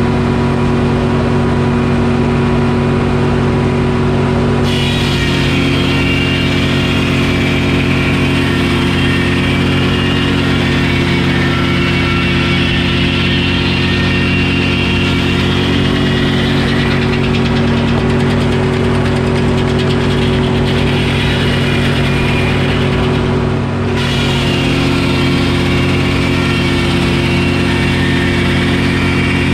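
Detroit Diesel engine running steadily as the power unit of a Frick sawmill, with the saw's higher cutting sound joining about five seconds in, breaking off sharply about twenty-four seconds in and picking up again straight away.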